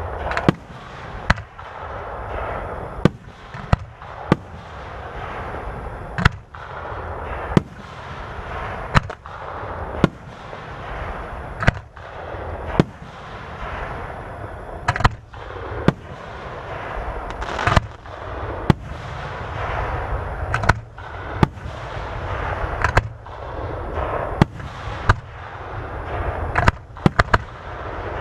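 Fireworks display: aerial shells bursting with sharp bangs about once or twice a second, each followed by crackling, with a rapid run of bangs near the end.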